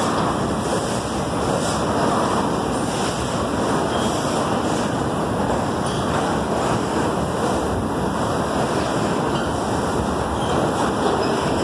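Freight train wagons passing close by at speed: a steady, even rushing noise of wheels on the rails.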